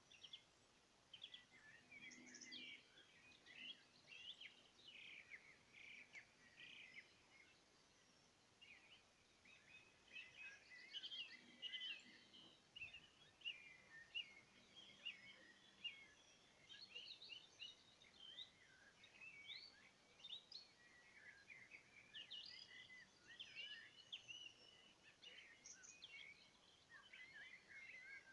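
A chorus of several songbirds singing and chirping in spring, many quick high overlapping notes, faint throughout.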